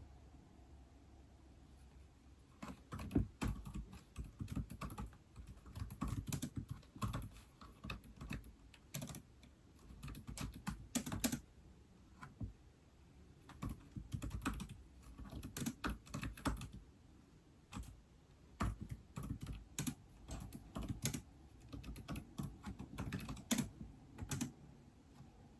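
Typing on an iPad keyboard: quick runs of key clicks with brief pauses between them, starting about two and a half seconds in.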